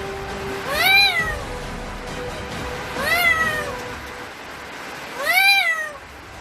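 Pet black-capped lory calling: three drawn-out calls about two seconds apart, each rising then falling in pitch.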